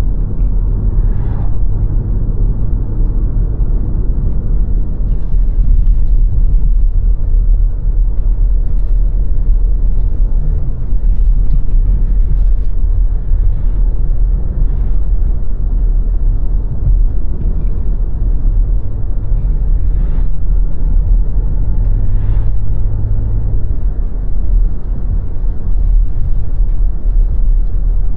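Car driving along steadily: a continuous low rumble of road and engine noise.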